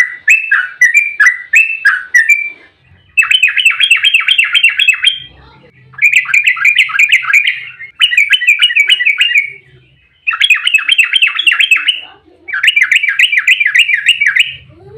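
Yellow-vented bulbul (trucukan) singing loudly. A run of bubbly gliding notes is followed by five fast chattering rolls of about two seconds each, separated by short pauses.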